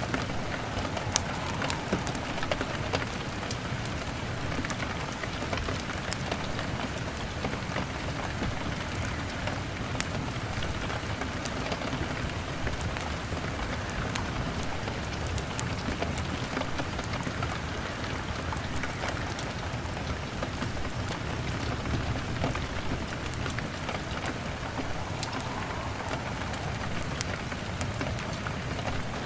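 Steady rain on a window pane mixed with a crackling log fire: a constant hiss of rain with scattered sharp crackles and pops.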